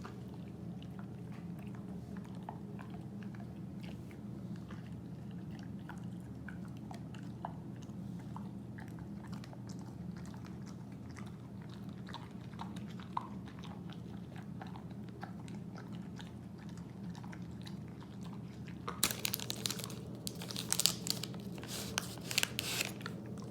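A Siberian husky chewing a hard dog treat: faint scattered chewing clicks, then loud crunching bites over the last few seconds, with a steady low hum underneath.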